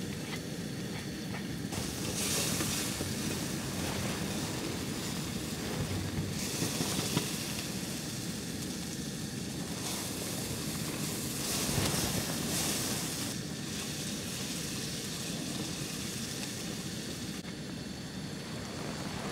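Strong wind blowing in gusts, swelling into a louder rush several times, with wind buffeting the microphone.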